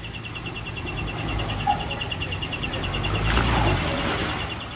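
Off-road 4x4 engine working at low speed, rising to its loudest about three seconds in and easing off near the end. Over it, an insect keeps up a rapid, even pulsing chirp.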